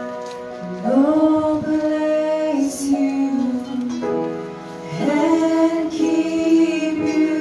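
A female voice sings long held notes of a gentle hymn over soft accompaniment, with two sustained phrases, the second starting about five seconds in.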